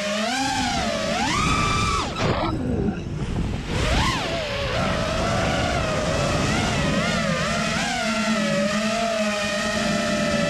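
Dirt bike engine revving and riding, its pitch rising and falling with the throttle, with a couple of abrupt breaks in the first four seconds.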